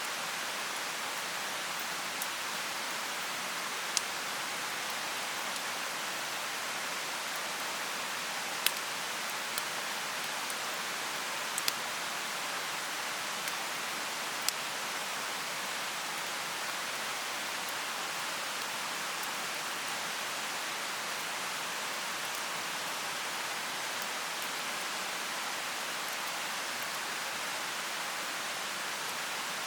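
Mountain stream rushing in a steady hiss, with a bonfire crackling over it: a handful of sharp single pops in the first half.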